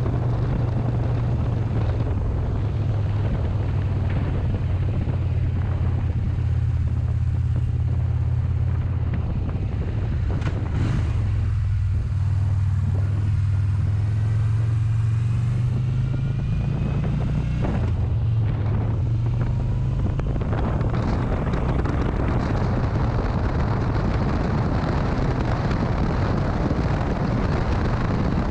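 Motorcycle engine running during a ride, a steady low drone under wind noise on the microphone. The wind noise drops away for several seconds around the middle, then builds again.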